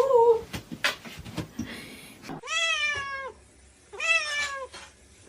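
A domestic cat meowing: two long meows about a second and a half apart, each dropping in pitch at the end, after a few light knocks in the first second.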